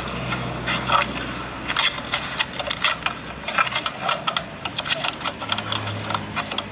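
Irregular light metallic clicks and clinks, several a second, from hand tools working on copper pipe during flaring, over a faint low hum.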